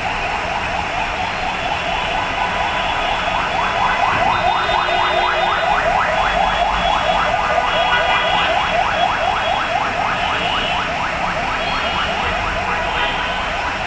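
Heavy rain falling, with a rapid electronic chirp rising in pitch several times a second laid over it; the chirping swells a few seconds in and fades toward the end.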